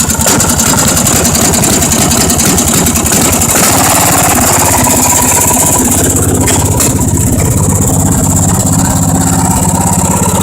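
Riding lawn tractor's small gasoline engine running steadily just after starting, with a couple of brief clicks near the middle.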